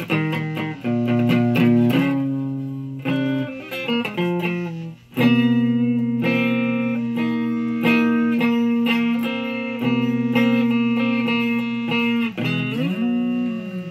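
Electric guitar playing a lead line: a quick run of picked notes, then long sustained notes with slight vibrato, and a string bend down and back up near the end.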